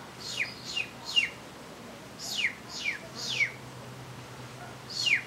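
A small bird calling: high, clear notes that each slide steeply downward, given in quick runs of three, two runs and the start of a third near the end.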